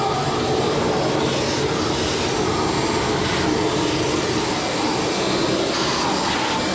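Large vacuum running steadily, sucking up sawdust.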